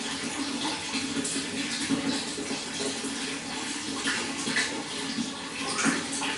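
Running water, splashing continuously with irregular small splashes.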